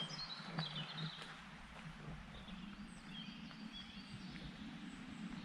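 Small birds chirping and twittering: many short, high chirps scattered throughout, over a faint low steady rumble.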